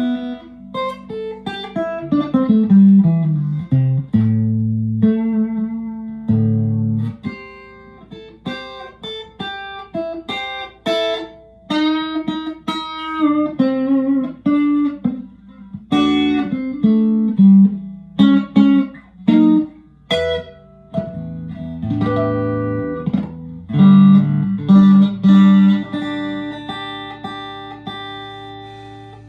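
Fender USA Stratocaster electric guitar played clean after a fresh setup: single notes, runs and ringing chords, with a descending bass line about two to four seconds in.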